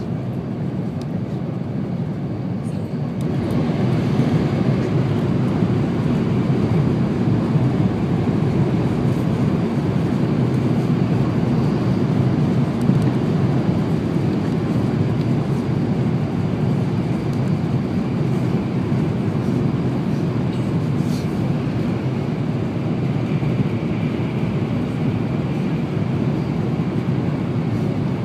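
Steady running noise of an N700-series Shinkansen at speed, a rumble and rush heard from inside the passenger cabin. It grows louder and brighter about three seconds in, then holds steady.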